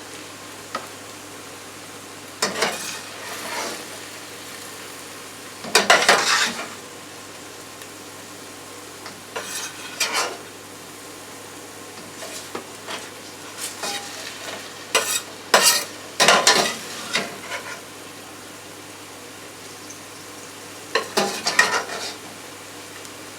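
Utensil scraping and clattering in a frying pan as stir-fried vegetables are scooped out, in irregular bursts every few seconds over a light sizzle and a steady low hum.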